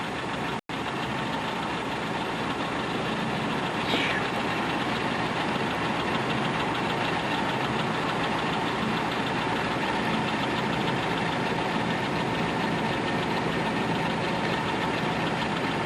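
Steady vehicle engine noise that runs on evenly, broken by a brief dropout about half a second in.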